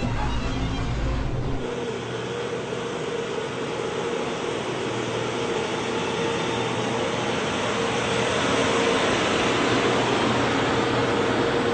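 Ashok Leyland Stallion 4x4 army truck's six-cylinder turbocharged engine running under way, a steady noisy drone with a held whine that edges up in pitch and grows louder toward the end.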